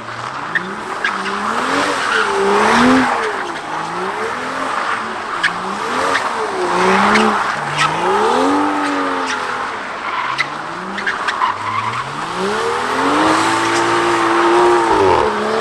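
A car engine revving up and down over and over while the tyres squeal and skid as the wheels spin and the car slides. Near the end it holds high revs for about two seconds before dropping off.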